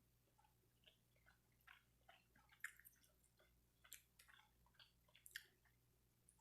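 Faint close-up sounds of a person chewing food, with soft irregular smacks and clicks of the mouth.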